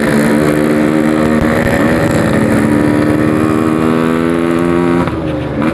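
Two-stroke Yamaha RX-King 135cc engine through a 'packing power' exhaust, accelerating under throttle with the pitch climbing steadily. Its revs dip briefly at a gear change about two seconds in, and about five seconds in the throttle closes and the pitch and loudness drop.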